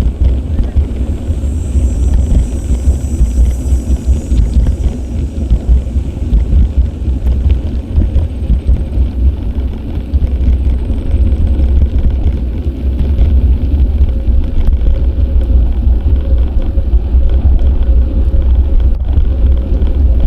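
Wind buffeting the microphone of an action camera on a moving bicycle: a loud, steady low rumble.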